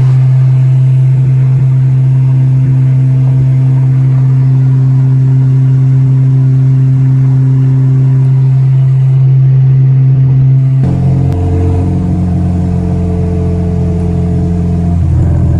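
Car engine and exhaust droning loudly at a steady pitch while driving, dropping to a lower note about eleven seconds in.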